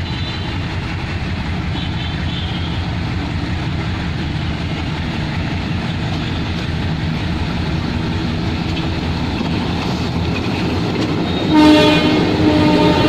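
Diesel-hauled passenger train pulling out, its locomotive engine running under a steady rumble of the moving train. Near the end the locomotive horn sounds once, a held note lasting about a second and a half.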